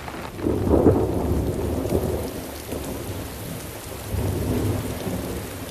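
Thunder rumbling over steady rain. A loud roll builds about half a second in and fades, and a second roll comes about four seconds in.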